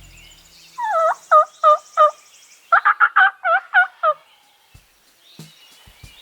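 Turkey calling: a run of about five loud, dipping yelp-like notes, then a faster run of about seven more.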